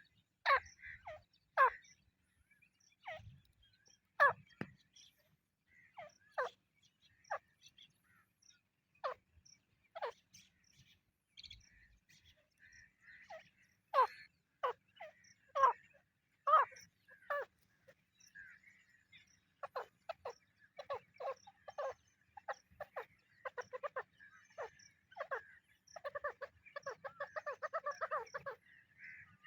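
Partridges (teetar) calling: a string of short, sharp notes that fall in pitch, spaced out at first, coming faster later and running into a rapid burst of calls near the end.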